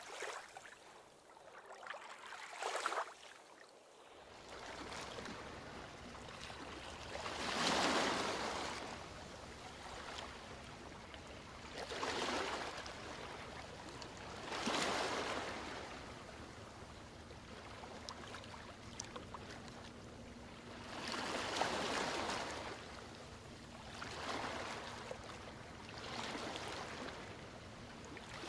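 Ocean waves breaking and washing on a beach, rising and falling in surges every few seconds, the loudest surge about 8 s in. A steady low rumble of surf runs underneath from about 4 s in.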